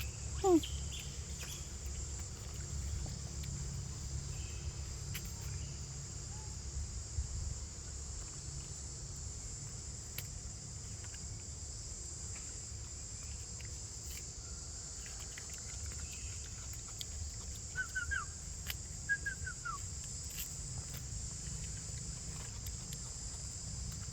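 Insects droning steadily in a high, even band over a low rumble. A few short falling chirps come just after the start and again about three-quarters of the way through.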